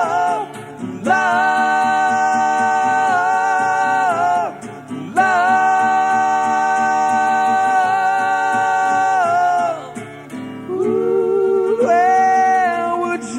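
Live band music with singing: voices hold two long, slightly wavering notes of several seconds each, then move through shorter, rising notes near the end.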